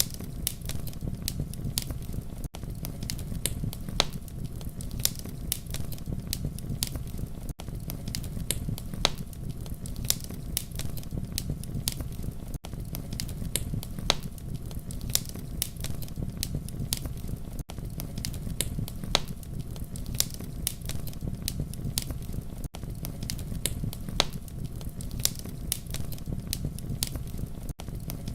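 Campfire crackling and popping over a steady low rumble of burning, with sharp snaps every fraction of a second. A brief gap in the sound recurs about every five seconds, where the fire recording loops.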